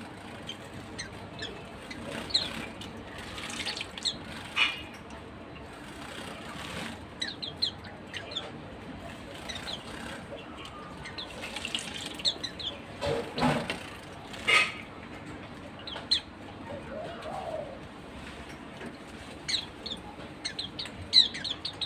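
White-eyes (pleci) giving many short, high chirps, with fluttering wings and a few sharp splashes or knocks as they take turns at a bath.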